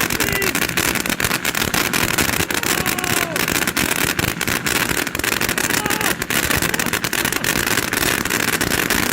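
Magnus Ocean Liner consumer firework fountain burning with a steady loud rushing hiss, peppered with dense crackling throughout.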